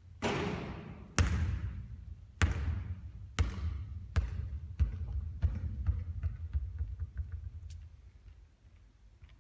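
A basketball bouncing on a court floor after a shot, each bounce quicker and fainter than the last until the ball settles and rolls away. Just before the first bounce there is a longer, ringing hit.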